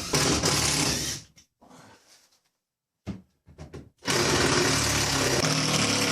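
Power drill-driver running, backing screws out of old wooden roof supports; it stops about a second in and starts again after a near-silent gap of almost three seconds.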